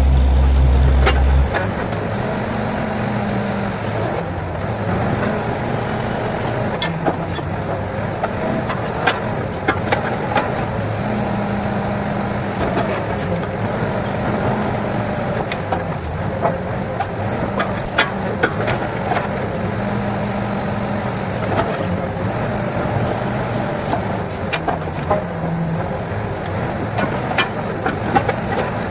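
Borewell drilling rig's engine running steadily with scattered metallic clanks and knocks. A heavy deep rumble cuts off about one and a half seconds in.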